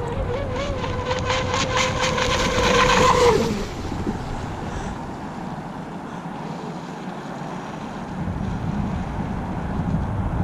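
Battery-powered RC flatbottom drag boat's electric motor running at a steady high whine with a rapid pulsing, growing louder for about three and a half seconds and then cutting off. Afterwards only a steady rushing noise remains.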